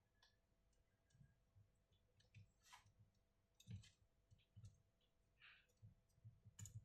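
Faint, scattered clicks and light taps of small hard parts being handled, over near silence.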